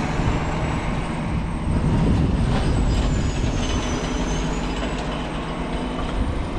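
A snowplow truck passing with its engine rumbling low, loudest about two seconds in. A thin high whine dips and rises above it midway.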